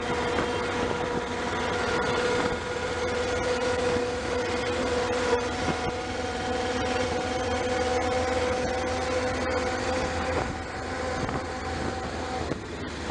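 A passenger train running, heard from on board as a steady rumble with a couple of steady hums. One hum drops out about ten seconds in and the other shortly before the end.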